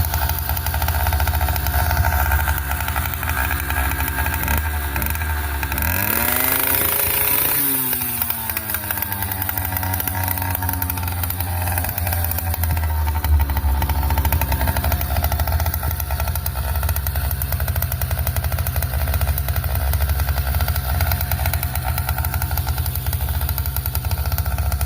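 100cc gas bicycle engine running, revved up from about four and a half seconds in and easing back down after about eight seconds, then running steadily.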